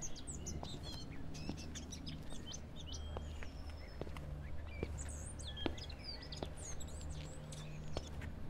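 Small birds chirping and tweeting in many short, quick high calls over a steady low hum, with a few faint ticks.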